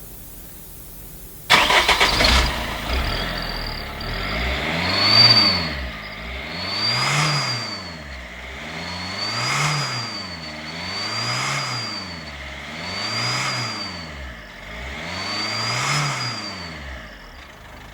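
Citroën C2 engine started about a second and a half in, then revved six times at even intervals, each rev rising and falling. An exhaust turbo whistler adds a high whistle that climbs and drops with every rev, mimicking a turbo.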